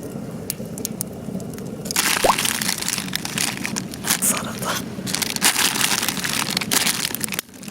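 Crackling of a campfire, with dense, irregular crackles that start about two seconds in, and a short rising squeak soon after.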